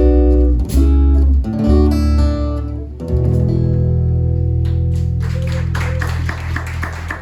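Acoustic guitar with low bass strumming the closing chords of a folk ballad, the last chord held and ringing out from about three seconds in. Clapping begins about five seconds in.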